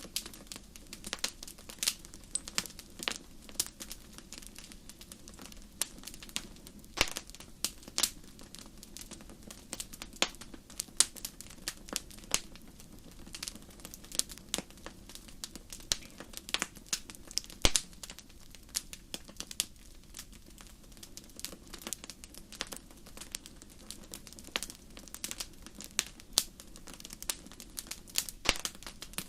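Wood fire crackling, with irregular sharp pops and snaps over a soft steady hiss of burning.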